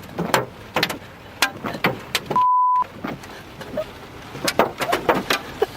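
Large hailstones, close to baseball size, striking the vehicle in irregular sharp knocks. About two and a half seconds in, a short steady beep briefly replaces all other sound.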